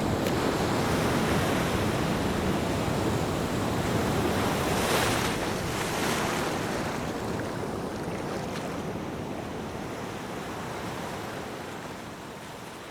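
Ocean surf: waves breaking and washing in, with a wave surging about five seconds in, then the wash gradually fading toward the end.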